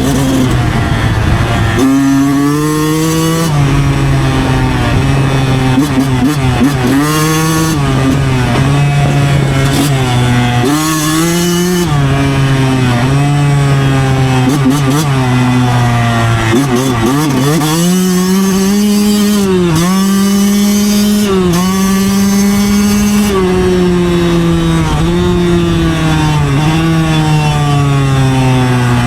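Yamaha YZ125's two-stroke single-cylinder engine running hard under way, its revs climbing and dropping again and again as the throttle is worked, with rushing wind noise underneath.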